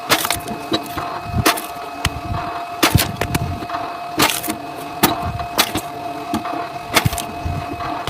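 Firewood being split: sharp cracks of wood breaking apart, about one every second or so, over a steady machine hum.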